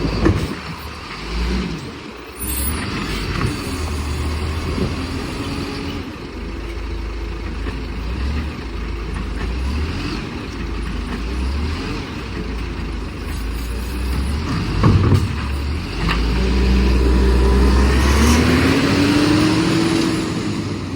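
Garbage truck running, with two sharp knocks, one right at the start and one about 15 seconds in. It gets louder from about 16 seconds, and the engine pitch rises near the end.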